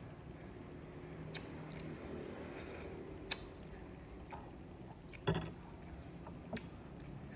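A few scattered clicks and light knocks over a faint background, about five in all, the loudest about five seconds in.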